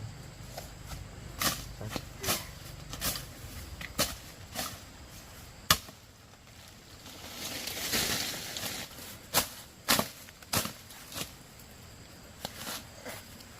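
About a dozen sharp knocks struck at irregular intervals, the loudest about six seconds in, with a brief rustling noise just after the middle.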